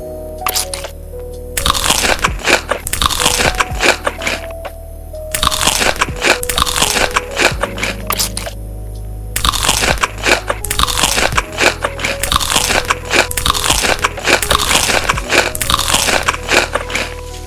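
Crisp food being bitten and chewed with loud crunching, in three long runs broken by short pauses, over background music with a simple stepping melody.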